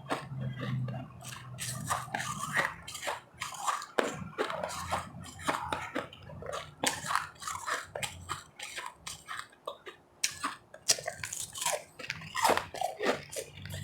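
Ice being bitten and chewed close to the microphone: a dense, irregular run of crunches and crackles.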